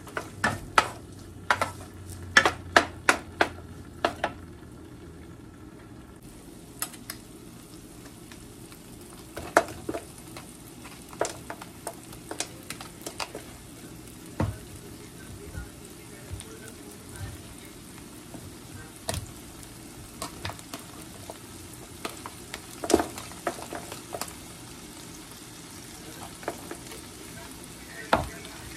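Diced meat frying in oil in a nonstick pan: a steady sizzle, with a wooden spoon clacking against the pan in a quick run of strokes over the first few seconds, then only now and then.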